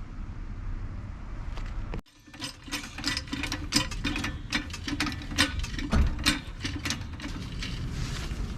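A steady low rumble, cut off suddenly about two seconds in, then a run of irregular sharp metallic clicks and clanks from hand tools at work, with a ratchet-like character.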